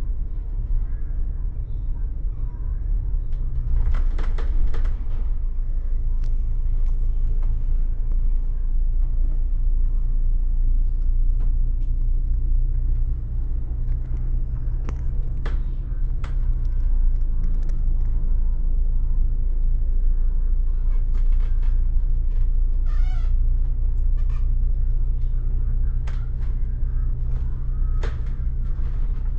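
Bus interior on the move: a steady low engine and road rumble with scattered rattles and clicks from the cabin, and a short wavering squeal a little past the middle. This is the odd noise that runs through the whole ride.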